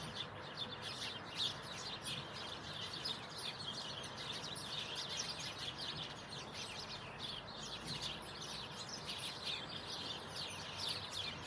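Many small birds chirping continuously in quick, high, overlapping calls over a steady background hiss.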